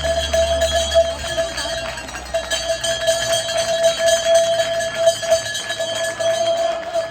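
A cowbell shaken hard and rung without a break, a steady clanging ring full of rapid clatter, dropping out for a moment about two seconds in.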